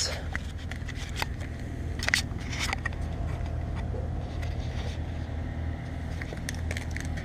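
A 2014 Toyota Tacoma's 4.0-litre V6 idling steadily through a Flowmaster 50 Series muffler: a low, even hum, with scattered light clicks and scrapes.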